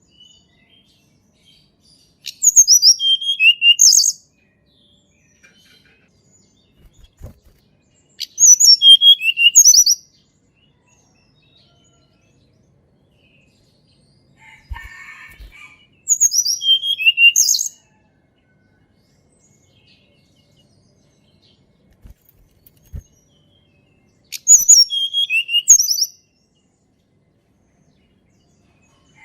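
Sunda robin (tledekan gunung) singing four short song phrases spaced about six to eight seconds apart. Each phrase mixes high, clear whistled notes with a lower run of quick falling notes. A fainter, lower chirping is heard once, about halfway through.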